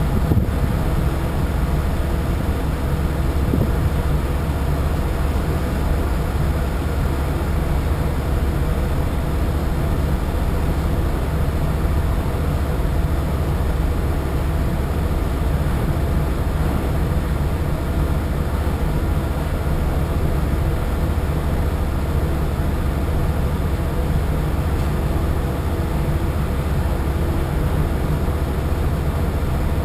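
A boat's engine running steadily: a low, even drone with a set of fixed tones above it and a steady hiss.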